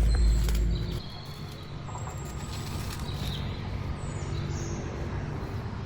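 Birds chirping over a steady low hum, with a deep rumble that dies away about a second in.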